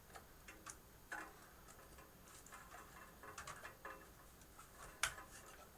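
Faint, irregular light clicks and taps of hard drives and their mounting hardware being handled in a computer server case, with one sharper click about five seconds in.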